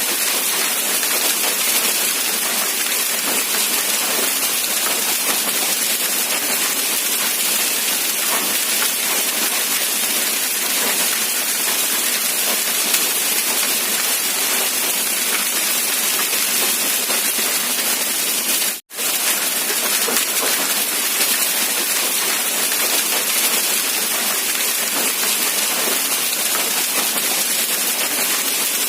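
Steady rain falling, a dense even hiss of drops. The sound cuts out for a split second about two-thirds of the way through, then resumes unchanged.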